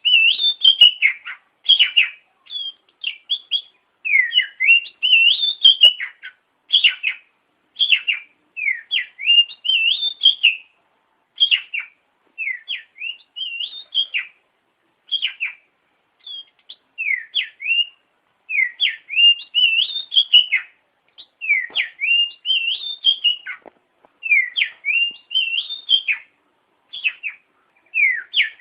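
Oriental magpie-robin singing in full, continuous song: a steady run of short, varied whistled phrases, one after another with only brief gaps.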